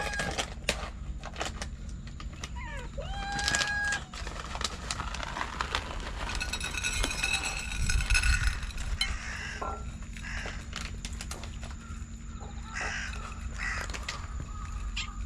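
A cat meowing, short rising calls heard twice in the first few seconds, among scattered clicks and rustling.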